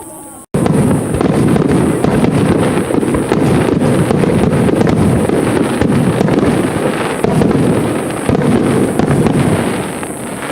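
Fireworks display barrage: a dense, continuous run of booming shell bursts and crackles that starts abruptly about half a second in and eases slightly near the end.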